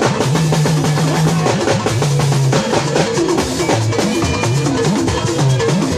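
Live gospel band music: a drum kit keeps a steady, busy beat under long held low bass notes that step to a new pitch about every second.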